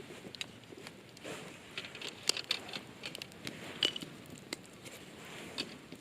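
Irregular small clicks and crackles over a faint rustle, a few sharper ones standing out about two and four seconds in.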